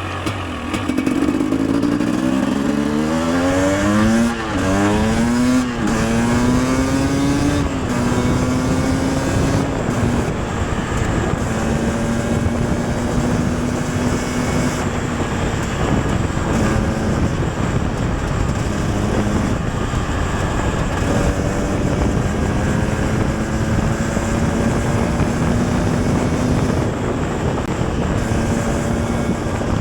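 KTM 250 EXC TPI single-cylinder two-stroke engine pulling away from idle and revving up through the gears, its pitch rising and dropping back several times in the first seven seconds. It then holds a steady speed, with brief throttle lifts now and then.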